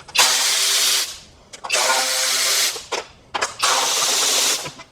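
Power tool with a socket spinning out valve cover bolts on a 327 small-block Chevy, running in three bursts of about a second each with short pauses between them.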